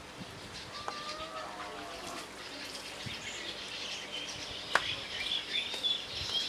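Birds chirping, with a short warbling call early on and a few sharp clicks, the loudest about three-quarters of the way through.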